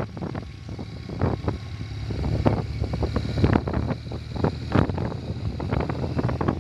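Motorcycle engine running while riding, with wind buffeting the microphone in irregular gusts.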